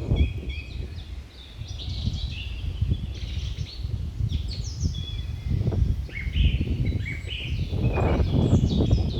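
Many small birds chirping and twittering, short overlapping high calls throughout, over gusts of low rumbling outdoor noise that swell near the end.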